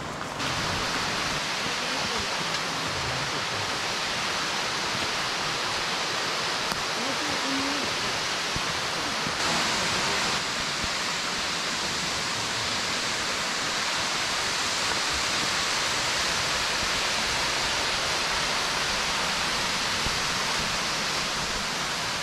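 Rushing water of a mountain stream, a steady even hiss.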